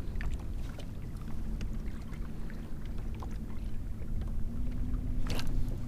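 Water lapping and splashing against a kayak's hull, with a low wind rumble on the microphone and scattered small ticks, one sharper tick about five seconds in.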